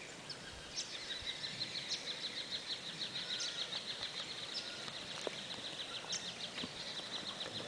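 Outdoor bush ambience with birds calling: a steady high-pitched trill, pulsing rapidly for a stretch in the middle, and scattered short sharp chirps.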